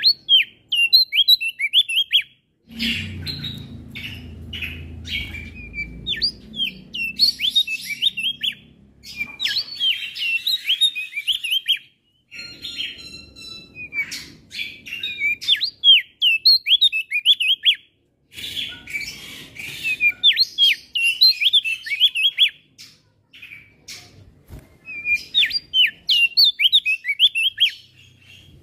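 Male opior jambul singing: bursts of rapid, sharp, sweeping chirps, broken by short pauses twice. A low rumble sits beneath the song in places.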